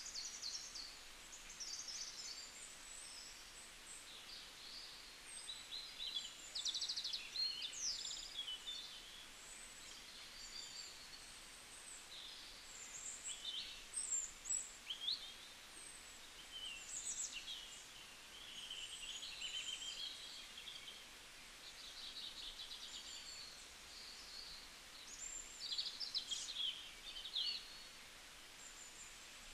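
Birds chirping and twittering: short high calls, quick trills and rising and falling whistles come and go throughout over a faint steady hiss.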